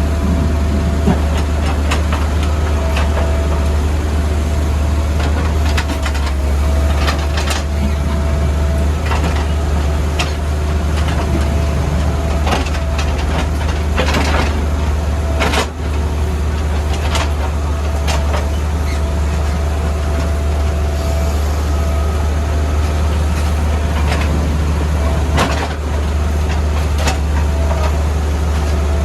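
CAT 462F backhoe loader's diesel engine running steadily under load, with a steady whine above the engine note and scattered sharp knocks and clatters, typical of the bucket breaking up road surface.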